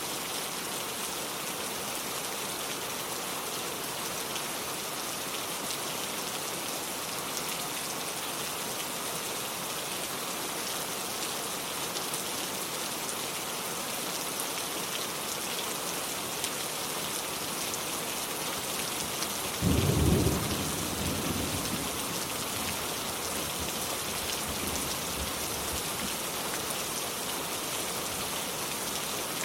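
Steady rain falling, with a single sudden clap of thunder about twenty seconds in that rumbles away over a couple of seconds.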